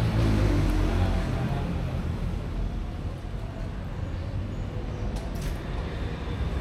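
Road traffic rumble: a passing motor vehicle's engine fading away in the first second or so, then a steady low rumble.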